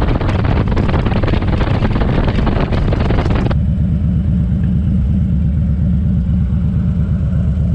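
Motorcycle engine running on the road, with heavy wind noise on the microphone. About three and a half seconds in, the wind noise suddenly drops away, leaving a steady low engine note.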